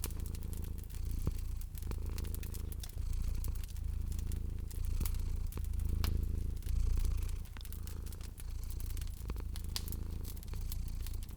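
A domestic cat purring steadily, its low rumble swelling and easing about once a second with each breath, over the sharp pops and snaps of a crackling wood fire.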